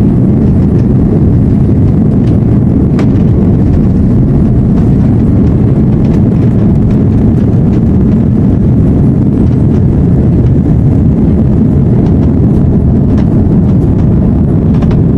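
Cabin noise of an Airbus A330-343: a loud, steady rumble from its Rolls-Royce Trent 700 jet engines and the rushing air, with a few faint knocks and rattles.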